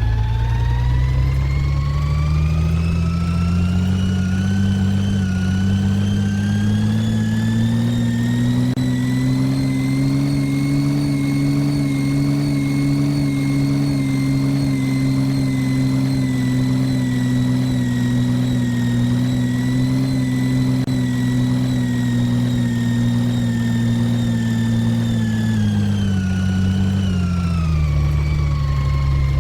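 Side-loader garbage truck's diesel engine rising slowly from idle to a raised, steady speed over about ten seconds. It holds there for roughly fifteen seconds, then drops back toward idle near the end.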